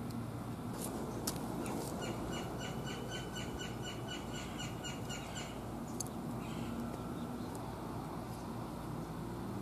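A bird calling a quick run of about a dozen short, even notes, roughly three or four a second, starting about two seconds in. Underneath is a steady low background noise with a few sharp clicks.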